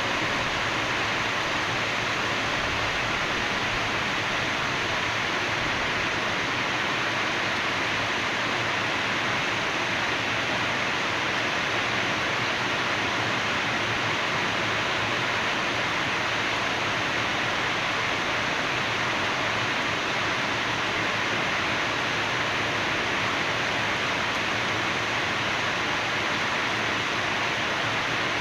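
Steady rainfall: an even, unchanging hiss with no single drops or thunder standing out.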